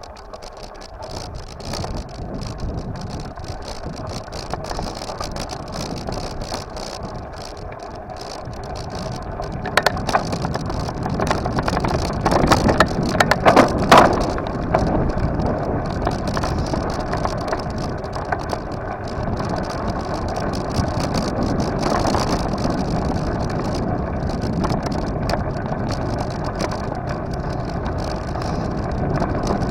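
Riding noise from a bicycle on the move: a steady rumble of tyres and wind that slowly grows louder. A cluster of rattles and knocks comes about ten to fourteen seconds in.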